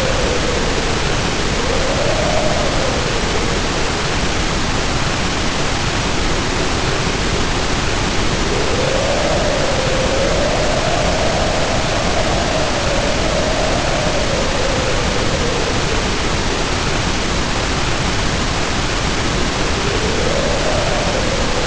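Heavy rain pouring down in a steady, dense hiss, with wind howling over it in slow rising and falling moans that come and go, strongest through the middle.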